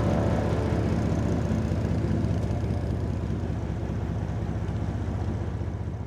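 Boat engine running steadily with a fast, even low pulsing, over wind and water hiss; background music fades out in the first second and the engine sound dies away near the end.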